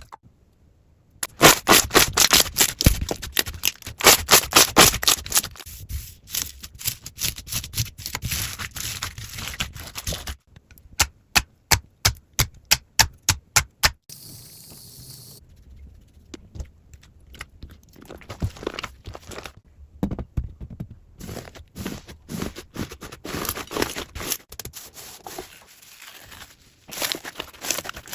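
Slime being squeezed and poked by hand, giving rapid runs of sharp clicking and crackling pops that come in bursts, with a quieter, sparser stretch after the middle.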